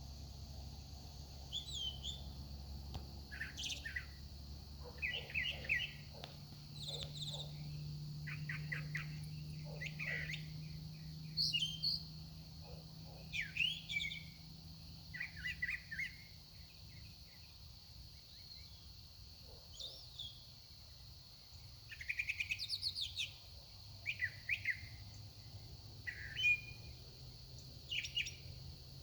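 A songbird singing a long run of varied phrases, hardly repeating any of them, in short bursts of chirps, trills and slurred notes separated by brief pauses, over a faint steady low hum.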